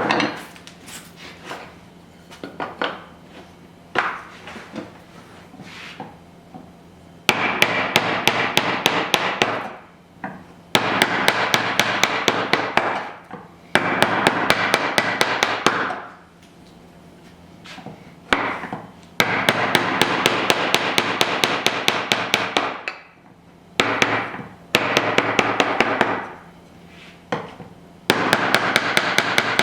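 Hand tools working wood: a few scattered sharp taps at first, then several long passes of dense rasping with a fast, even ticking, each lasting two or three seconds with short pauses between.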